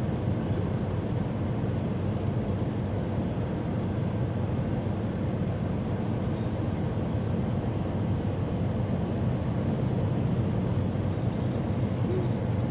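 Steady low drone of engine and road noise inside a semi-truck cab cruising at highway speed, about 70 mph, with a faint thin high tone above it.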